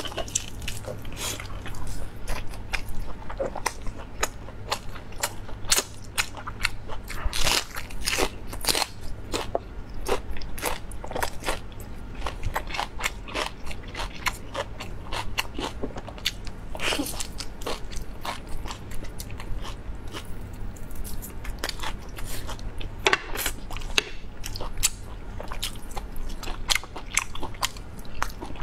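Close-miked eating sounds: biting into and chewing tender meat pulled from a large beef bone, a steady run of irregular wet clicks and chews, over a constant low hum.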